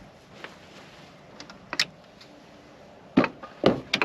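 Camping gear and food being handled in a wooden storage box: a few light clicks, then several loud knocks near the end.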